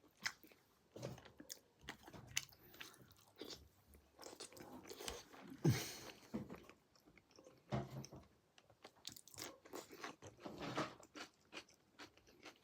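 A person biting and chewing pork close to the microphone: irregular, wet mouth noises and short bites, the loudest about six seconds in.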